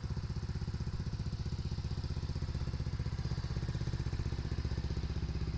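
Dong Fang 200SST scooter engine idling steadily with an even, rapid pulse.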